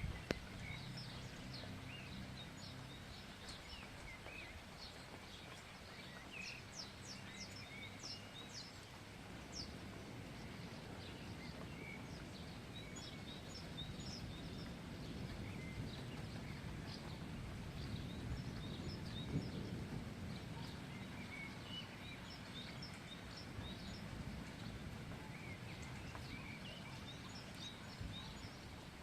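Birds chirping and calling, many short high chirps scattered throughout, over a steady low background rumble.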